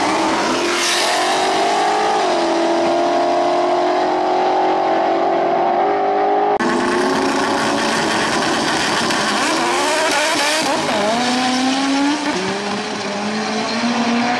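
Car engines at full throttle in street drag races, their pitch climbing and then holding high. There is a sudden cut to a second race about halfway through, where the engine pitch dips and climbs again as the car shifts gears.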